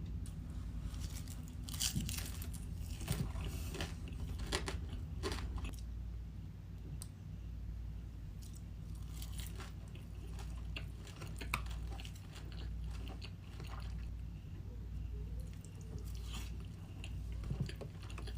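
A person chewing sushi close to the microphone, with irregular crunching bites and wet mouth sounds, busiest in the first few seconds.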